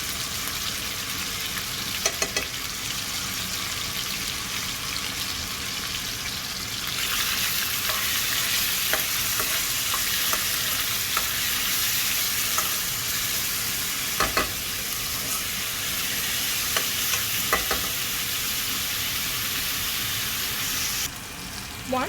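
Chicken pieces frying in hot oil in a pan: a steady sizzle that grows louder about seven seconds in and eases off near the end, with a few knocks of the stirring utensil against the pan.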